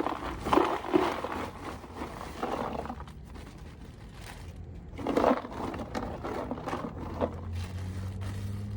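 Ice being tipped and handled into an esky cooler, crunching and scraping in several short bursts. A steady low hum comes in near the end.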